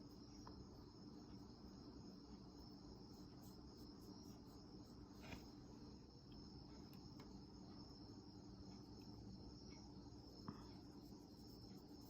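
Near silence: room tone with a faint steady high-pitched whine and a couple of soft taps, about five and ten seconds in.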